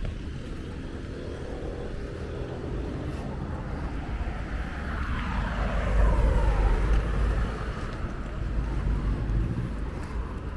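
Road traffic running steadily, with one motor vehicle passing close by about halfway through, its pitch falling as it goes past.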